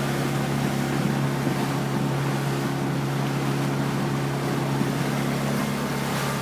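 Boat engine running at a steady pitch, with an even rushing noise over it.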